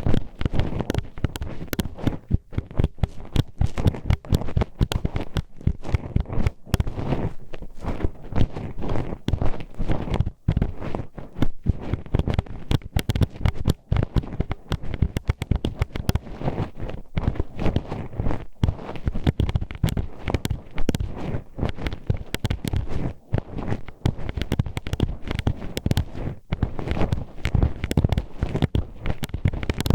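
Metal hairpin poked and scraped inside an ear, heard up close as a dense, irregular run of crackling clicks and taps.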